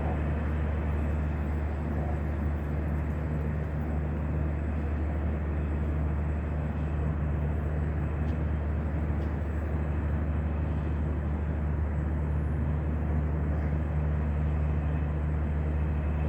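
Steady low mechanical hum and rumble with a rushing noise over it, unchanging throughout.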